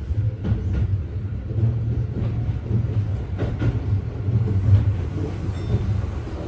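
Keio 7000 series electric commuter train running at speed: a steady low rumble of wheels on rail, with a few sharp clacks spread unevenly through it.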